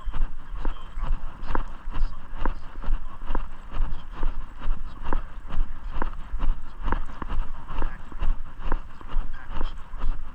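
Walking footsteps, an even pace of about two steps a second, over a steady low rumble.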